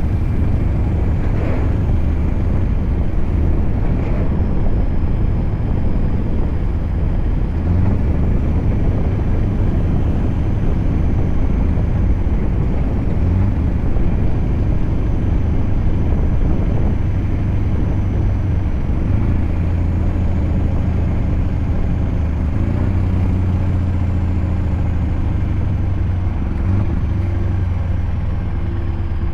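Scania V8 diesel truck engine running steadily as the truck drives, a deep continuous drone with only slight changes in pitch. A faint high whine drifts slowly up and down above it.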